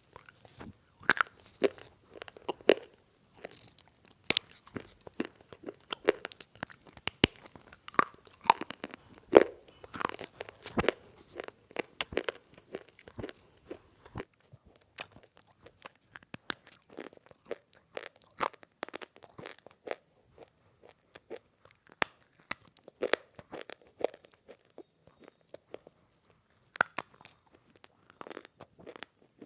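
Close-up crunching and chewing of semi-roasted multani mitti (fuller's earth clay) being bitten and eaten. The crisp crunches come several a second at first, then thin out to scattered bites about halfway through.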